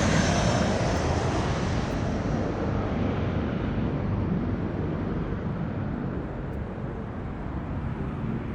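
Jet airliner's engines at takeoff power, a steady rushing noise that grows duller and fainter as the plane climbs away.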